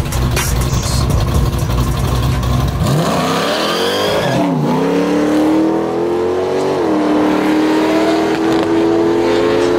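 Chevrolet Chevelle launching down a drag strip. After a low rumble for about the first three seconds, the engine revs up hard at the launch and drops briefly at a gear change. It shifts again about seven seconds in, then keeps climbing slowly in pitch as it pulls away.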